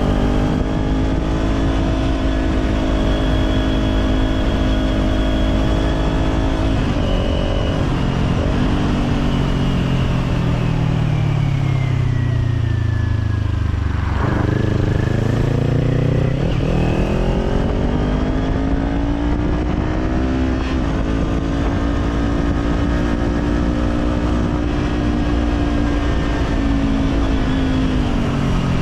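Kawasaki Z400's parallel-twin engine through an Orion Katya slip-on exhaust, heard from on the bike: it runs at a steady cruise, then its note falls steadily for several seconds as the bike slows, revs pick up sharply about halfway through, and the note climbs back to a steady cruise, dipping briefly near the end.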